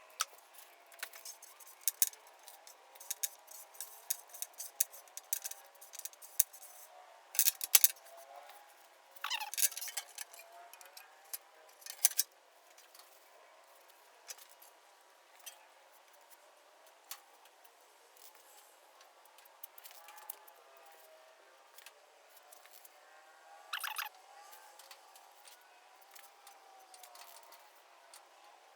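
Body filler being worked onto a metal bumper with a spreader: scattered short clicks and scrapes, with a few longer scraping strokes around a third of the way in and again later.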